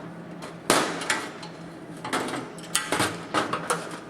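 Sharp metallic knocks and clatters, about eight in all, as steel sill parts and tools are handled and set down on a metal workbench; the loudest knock comes under a second in.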